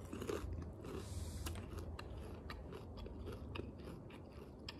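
A person biting and chewing a crispy fried chicken wing, with many small irregular crunches of the fried breading.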